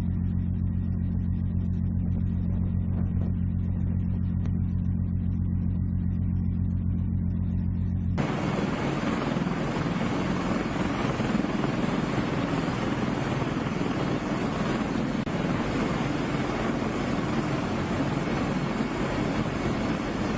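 A steady low engine drone, then about eight seconds in a sudden change to a loud, even rush of wind and engine noise. No gunfire is heard.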